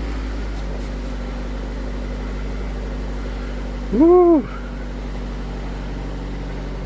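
2002 Mazda 626 engine idling steadily just after a cold start at about 34 °F.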